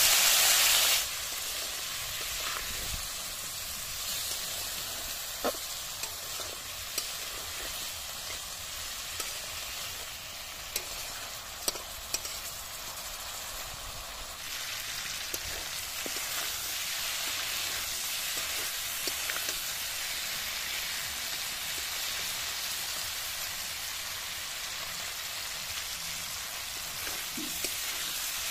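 Water poured into a hot wok of frying pork and vegetables sets off a loud hiss that drops back after about a second. The pork then sizzles steadily as it cooks down, with scattered short clicks as a spatula stirs it in the wok.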